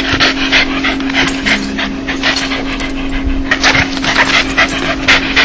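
Dog panting in quick, breathy huffs, a few to the second: the play pant known as a dog's laugh, the sound a dog makes when happy and excited. A steady low hum lies underneath.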